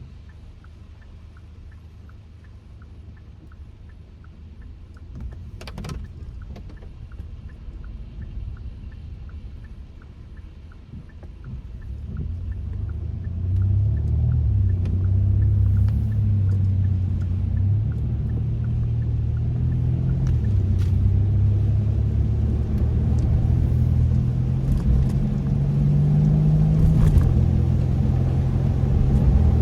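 Kia K5 (DL3) sitting quiet with a light, regular ticking, then about twelve seconds in its engine and road noise swell as the car pulls away and accelerates, the engine note rising and dropping back a few times.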